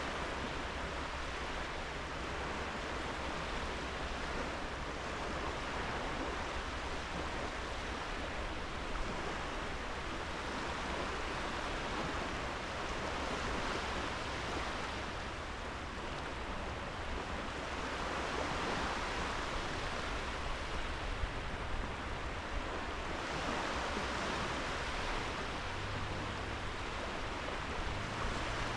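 Small sea waves breaking and washing up a sandy beach: a steady rush of surf that swells and eases as each wave comes in.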